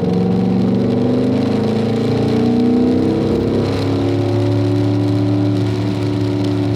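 Car engine running under steady throttle, its pitch rising slowly; about three seconds in the pitch drops to a new level and then holds steady.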